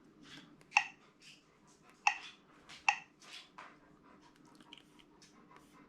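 Sat nav touchscreen being operated: three sharp clicks, about a second in, two seconds in and just under three seconds in, among fainter ticks.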